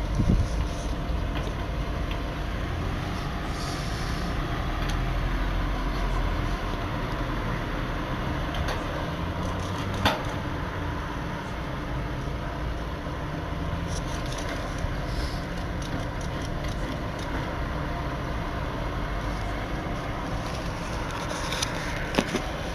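Steady low rumble of a road vehicle's engine running, over street noise, with a single sharp click about ten seconds in.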